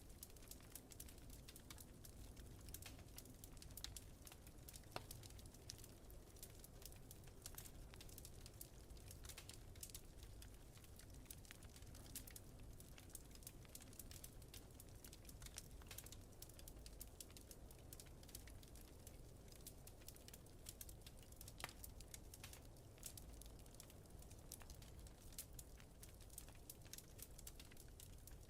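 Faint wood fire crackling with many small pops and a few sharper snaps, over a steady low rumble of wind.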